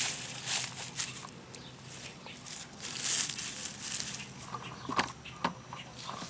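Irregular rustling and crunching, like footsteps and handling of plants and straw mulch, swelling near the start and again about three seconds in, with a few short sharp ticks about five seconds in.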